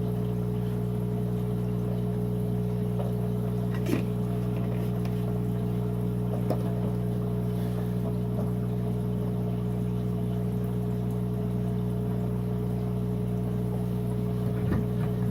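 Steady electric hum of aquarium pumps and filtration equipment, unchanging throughout, with a small click about four seconds in.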